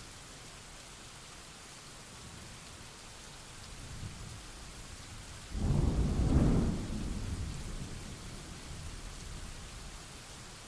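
Steady rain hissing, with a thunderclap about halfway through: a low rumble builds, breaks into a sudden loud crack, then rolls away over several seconds.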